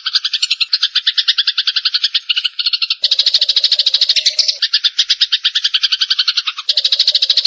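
Eurasian tree sparrows chattering in fast, unbroken trains of sharp chirps, about ten a second, the agitated calls of sparrows squabbling. The chatter changes character abruptly a few times, as one run of calls gives way to another.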